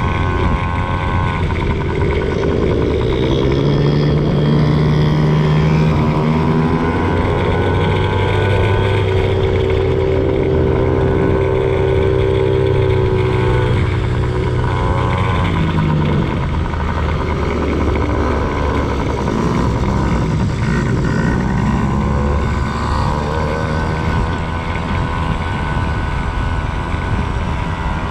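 Dirt bike engine revving up and down as the bike rides a motocross track: the pitch climbs, holds high for several seconds, drops sharply about halfway through, then rises and falls again. A heavy low rumble runs under it.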